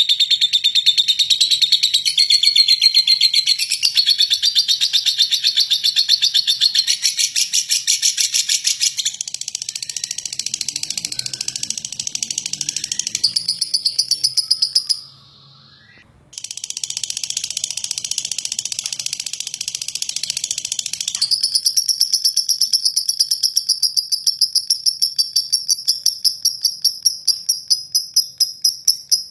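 Lovebird singing a long, harsh rapid-fire chatter (ngeklek), fast repeated chirps strung together without pause. It breaks off for about a second midway, then goes on as a higher, steadier rapid trill.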